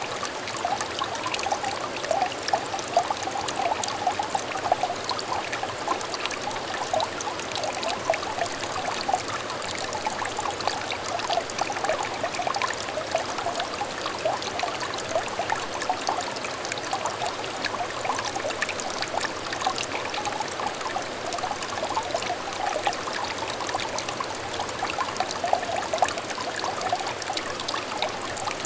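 Shallow stream trickling and babbling steadily, a dense patter of small bubbling splashes over a constant rush of water.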